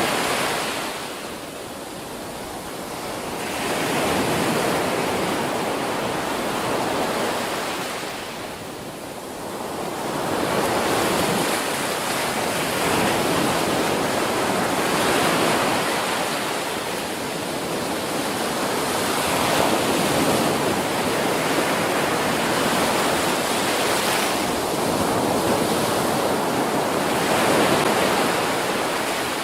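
Ocean surf: waves breaking and washing up a beach in a continuous roar of noise that swells and eases, dropping back briefly about two seconds in and again about nine seconds in.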